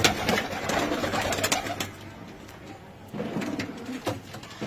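Domestic pigeons cooing in two spells, with sharp taps and clicks among them.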